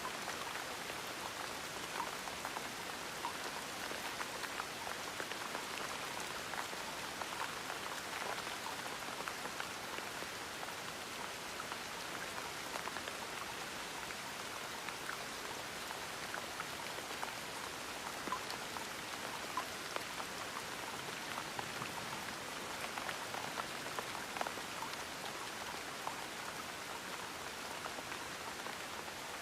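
Gentle rain falling steadily, a soft even hiss scattered with the small ticks of individual drops hitting a surface.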